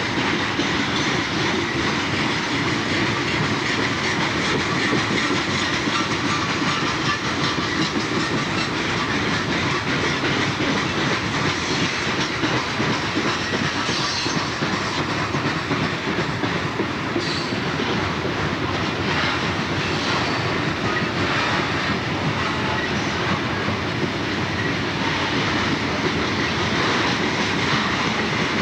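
Freight train of loaded open-top coal hoppers rolling past, the wheels clicking steadily over the rail joints under a continuous rumble.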